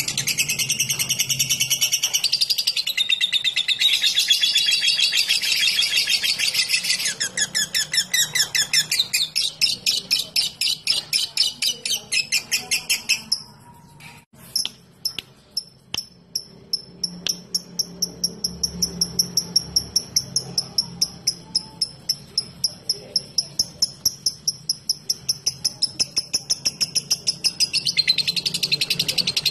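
Lovebird chattering in a dense unbroken run, then switching to a rapid string of short, sharp ticking chirps, several a second: the 'ngetik' call. The chirps break off briefly around the middle, and the dense chattering returns near the end.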